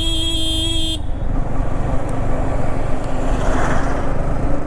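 A vehicle horn sounds in one held note and cuts off about a second in, over the steady low rumble of a motorcycle on the move.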